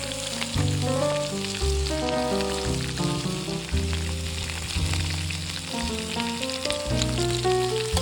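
Food sizzling and crackling as it fries in a pan, under background music with a melody and bass notes.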